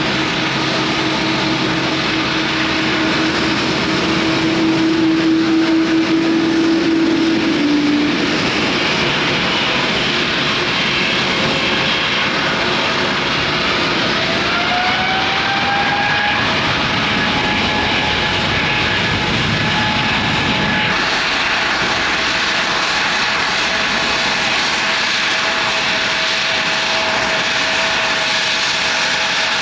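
Jet airliner engines running close by: a steady roar with whining tones. One whine drops in pitch about eight seconds in, and new whines rise in pitch around fourteen to sixteen seconds in.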